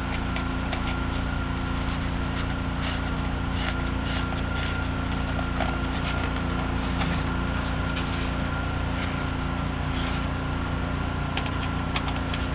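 A steady machine hum, an even low drone that does not change, with scattered light clicks and taps over it.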